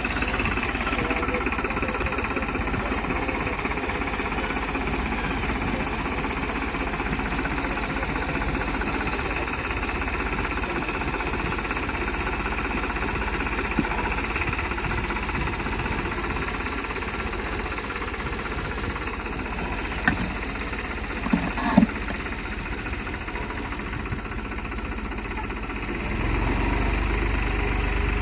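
Tractor diesel engine running steadily, getting louder about two seconds before the end, with a few short knocks around twenty seconds in.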